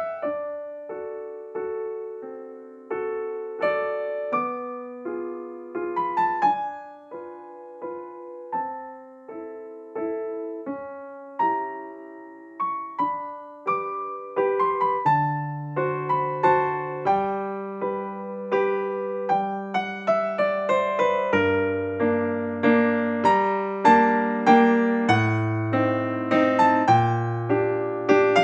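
Soft solo piano music, a gentle melody of separate struck notes; lower bass notes join about halfway and the playing grows fuller toward the end.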